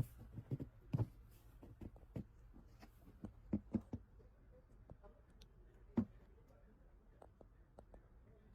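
Irregular short knocks and clicks over a low steady hum, the sharpest about a second in and about six seconds in, growing sparse near the end.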